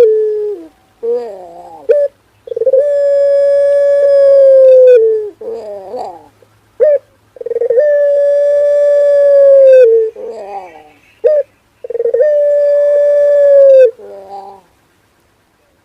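Male puter pelung, a long-voiced Barbary dove, cooing: three long, steady held notes of about two and a half seconds each that dip in pitch as they end, separated by short wavering notes.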